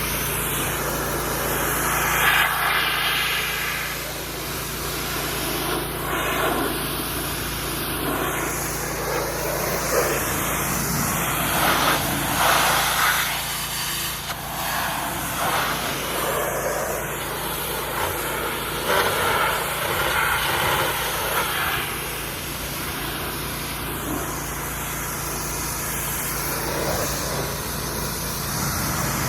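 Water spraying from a hose onto a truck in repeated bursts every few seconds, over a steady low hum.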